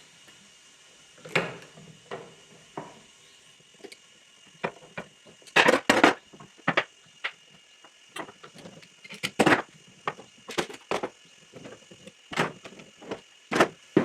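Irregular sharp wooden knocks and clatter as the parts of a wooden tail vise are fitted and tapped together during glue-up, with the loudest knocks in quick clusters about a third and two-thirds of the way through.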